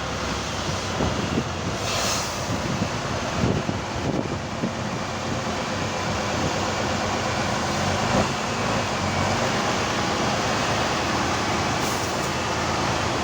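Competition trial truck's engine running steadily, with a brief hiss about two seconds in.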